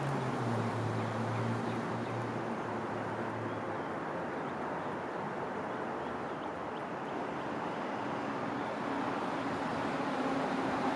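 Steady road traffic noise. A vehicle engine's low hum fades out over the first few seconds, and another hum builds back up near the end.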